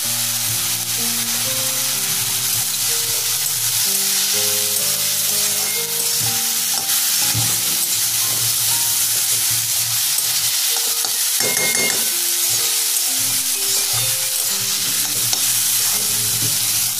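Chickpea greens and potato pieces sizzling in hot mustard oil in a karahi while a metal spatula stirs them and scrapes the pan. Soft background music with a slow melody plays underneath.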